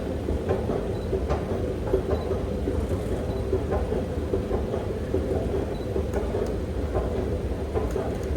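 Steady low rumble with a faint constant hum and scattered light clicks, like a moving rail car.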